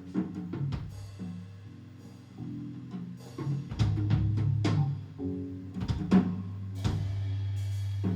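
Live band music: a drum kit playing scattered hits and fills over a held low bass note and pitched chords.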